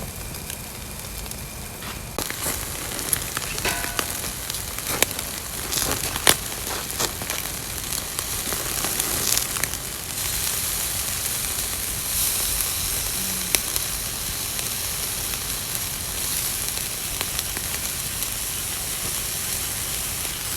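Yakitori skewers sizzling on a grill, with scattered pops and ticks early on that ease off. The sizzle grows louder about ten seconds in.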